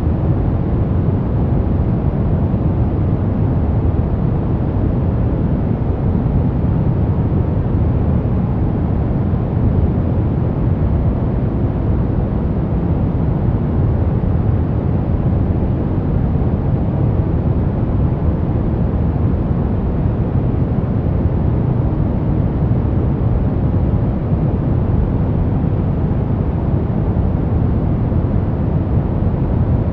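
Steady, unchanging sleep 'white noise' that sits deep and dull, strongest in the bass with little treble, like a low rushing hiss. It does not rise, fall or pulse.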